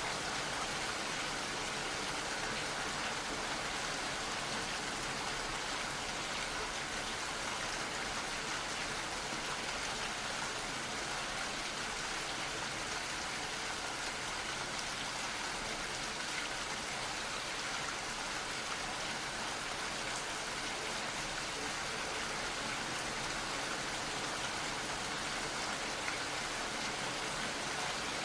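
Gentle rain falling, a steady even patter with no distinct drops standing out.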